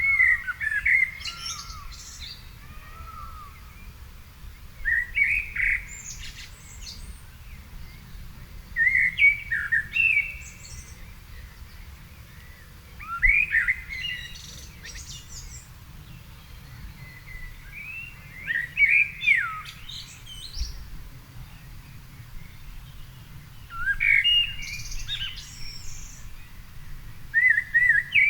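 A songbird singing a phrase about every four to five seconds, seven phrases in all, each a short warble followed by higher twittering notes. A low steady rumble runs underneath.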